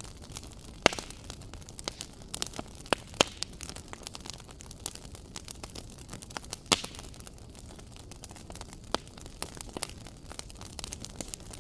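Wood fire crackling in a fireplace: a steady hiss with many small irregular pops and a few sharp louder snaps, the loudest about a second in and near seven seconds.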